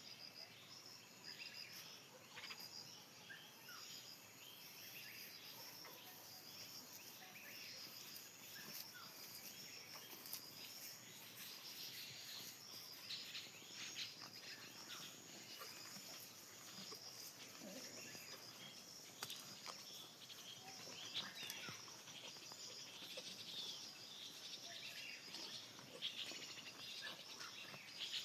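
Faint evening nature chorus: insects chirping in a steady, evenly repeating high-pitched pulse, with scattered bird chirps and calls over it.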